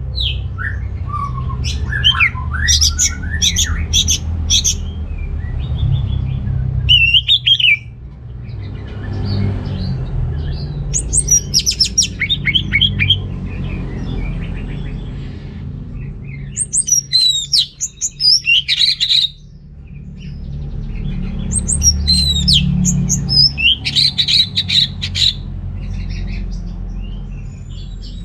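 Orange-headed thrush (anis merah) singing: fast, varied phrases of high, sliding whistled notes, in four bursts of a few seconds each with short pauses between. A steady low rumble runs underneath.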